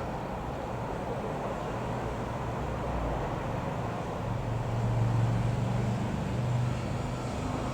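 Ikarus C-42 microlight's piston engine and propeller droning as it flies over, growing louder to a peak about five seconds in, then easing off.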